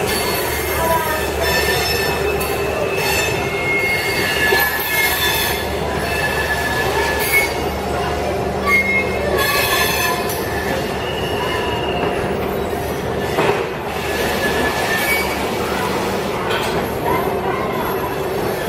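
Railway train wheels running on the rails, with short high squeals coming and going over a steady rumble and a few sharp clanks.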